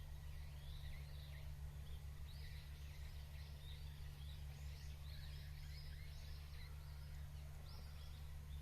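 Small birds chirping, many short, quick calls overlapping one another, over a steady low rumble.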